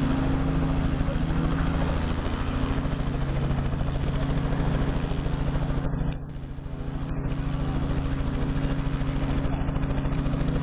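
Helicopter running for takeoff: rapid, steady rotor-blade chop over a steady low engine drone. The level dips briefly about six seconds in.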